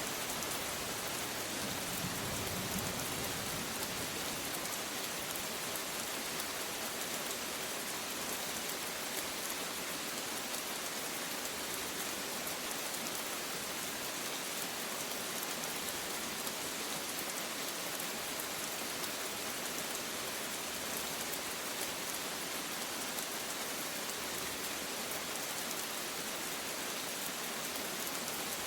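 Steady rain falling and pattering on surfaces, an even hiss that neither builds nor fades.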